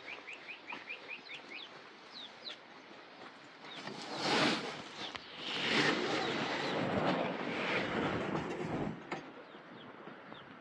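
A small bird chirping in quick short notes for the first couple of seconds, then a louder rough, unpitched noise for about five seconds.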